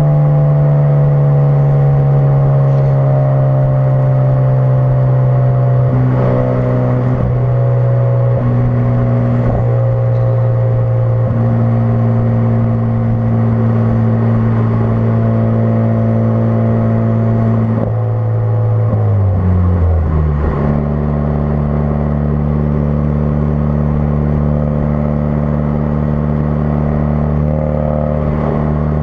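2016 Ford Focus RS's turbocharged 2.3-litre four-cylinder running through a custom-fabricated aftermarket exhaust. It holds a steady note that sags slowly in pitch, drops quickly to a lower note about two-thirds of the way in, then holds steady again.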